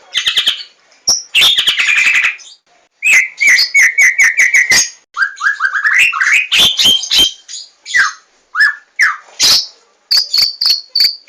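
White-rumped shama of the Javan 'larwo' form singing close up: a loud, varied song of rich whistled notes, fast runs of repeated notes and sharp clicking strokes in quick phrases, with short pauses between them.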